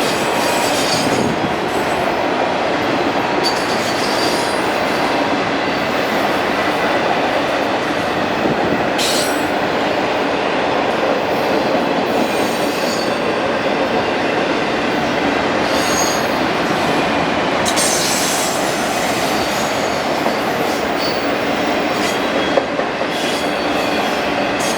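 Freight train cars rolling past at steady speed, a continuous loud rumbling rush of wheels on rail, with short high-pitched wheel squeals coming and going.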